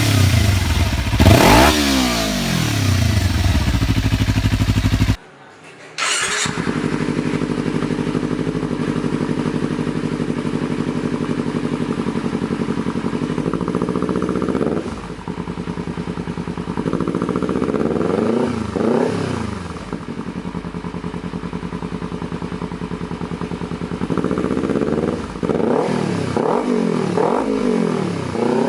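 Kawasaki Ninja 300 parallel-twin engine through an aftermarket exhaust, revved in quick rises and falls. After a sudden cut about five seconds in, it idles steadily with short throttle blips near the middle and toward the end.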